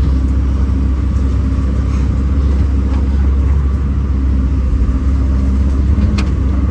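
Kobelco SK210 excavator's diesel engine running steadily, with a short click near the end.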